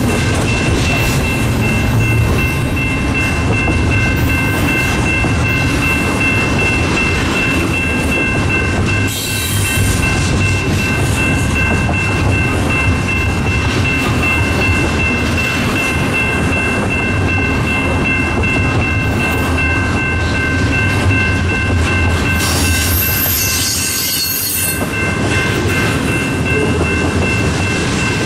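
Train cars rolling past with wheels clicking over rail joints and a steady high-pitched squeal of several held tones from the wheels, over a constant rumble. Two short hissing screeches flare up, about 9 seconds in and again about 23 seconds in.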